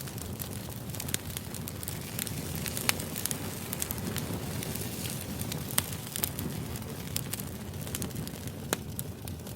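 Firewood burning in a fire pit: a steady low rush of flame with frequent sharp crackles and pops at irregular moments.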